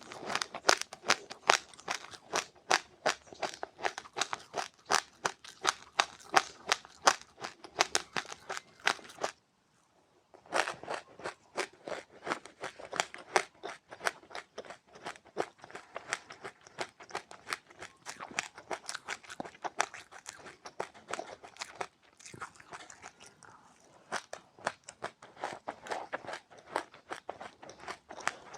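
Close-up crunching of seeds being chewed with passionfruit: rapid crisp crunches, several a second, with a pause of about a second near the middle.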